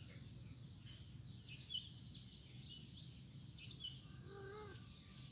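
Faint outdoor background with small birds chirping briefly several times, and one short lower-pitched call a little past four seconds in.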